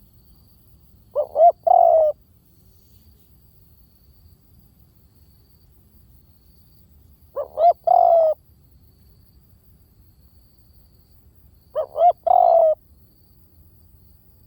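Spotted dove cooing: three calls a few seconds apart, each two short coos followed by a longer, slightly falling coo.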